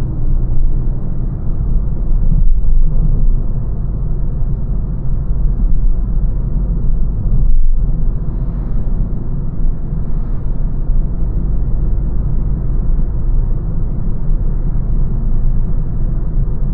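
Steady low rumble of a small hatchback being driven: road and tyre noise heard from inside the cabin.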